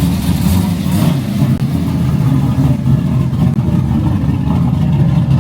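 A car engine running loud and steady, with a deep exhaust drone.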